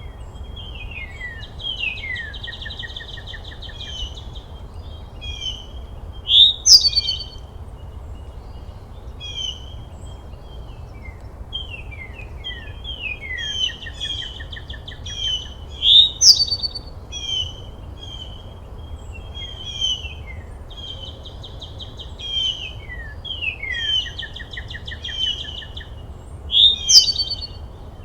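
Birds chirping and singing, with short repeated falling notes and trills overlapping. A louder, sharp call comes about every ten seconds. A faint, steady low rumble runs underneath.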